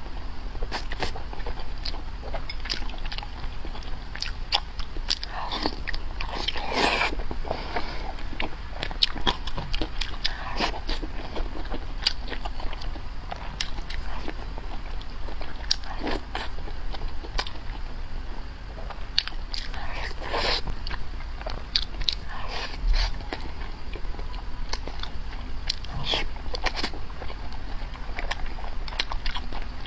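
Close-miked eating: irregular bites, crunches and chewing, with many sharp crackling clicks, over a steady low hum.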